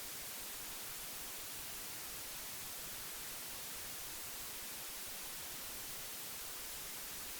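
Steady hiss of old magnetic tape, an even noise strongest in the high frequencies, with no changes or events.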